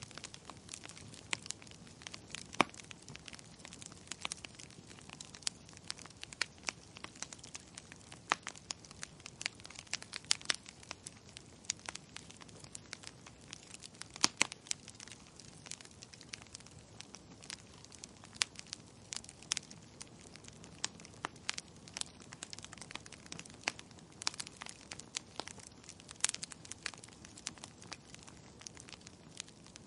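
Wood fire crackling in a fireplace: irregular sharp pops and snaps, a few each second and some much louder, over a faint steady hiss.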